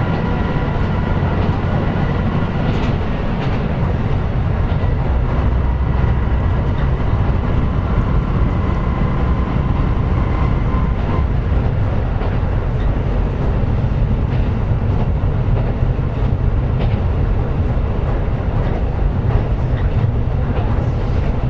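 KiHa 125 diesel railcar running at speed, heard from inside the car: a steady low rumble of engine and wheels on rail, with occasional faint rail-joint clicks. A faint high whine fades out in the first half.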